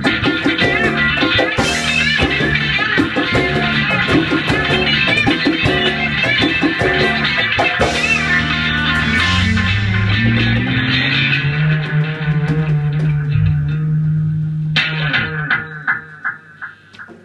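Live band music with guitar and bass guitar playing an instrumental passage, ending on a held chord that dies away about fifteen seconds in.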